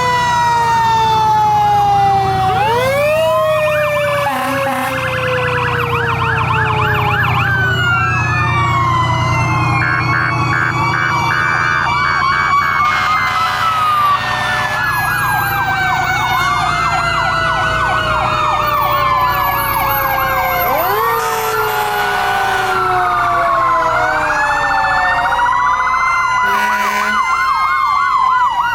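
Several fire trucks' sirens sounding at once: fast-cycling electronic wail and yelp tones overlap a mechanical siren that winds up quickly and then slowly winds down, over a steady low engine rumble.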